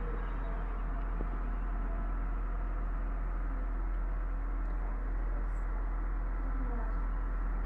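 Concrete pump truck running steadily, a constant low mechanical rumble with no breaks.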